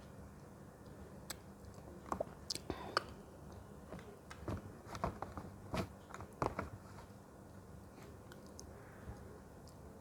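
A person biting and chewing fruit close to the microphone: a run of crisp crunches and wet mouth clicks, busiest in the middle and sparse near the start and end.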